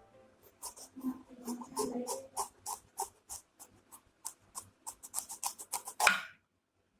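A quick series of short ticks or taps, about three a second, ending in one louder knock near the end.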